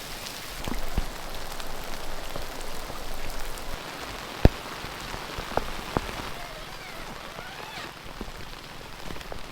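Heavy rain pouring down, a steady hiss with the sharp taps of single large drops striking close by, the loudest about four and a half seconds in.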